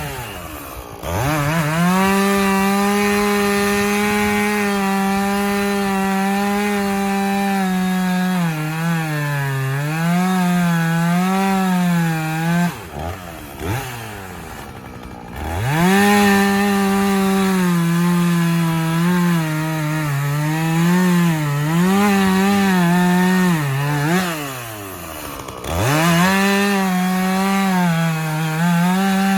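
Gas chainsaw run at full throttle cutting through a log, its engine note wavering and dipping as the chain bites into the wood. Twice the revs fall back toward idle and climb again, once around the middle and once near the end.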